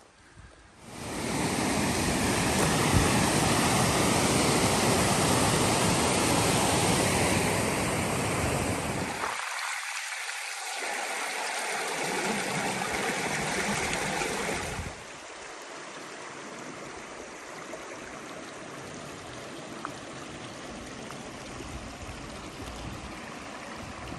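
Rushing river water, a steady hiss and rush like a rapid or small falls. It is loud at first, then drops to a quieter, steady rush about two-thirds of the way through.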